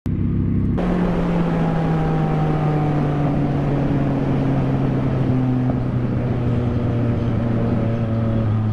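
Motorcycle engine running steadily, its pitch slowly falling as the bike slows down.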